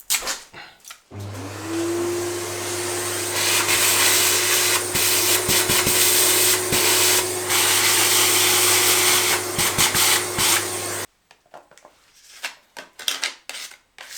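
Vacuum cleaner switched on, its motor whining up to speed and then running steadily for about ten seconds before it is switched off abruptly.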